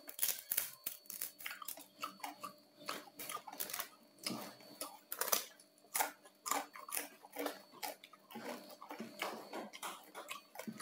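Close-miked chewing of crispy-skinned roast pork: irregular wet crunches and crackles, many times a second.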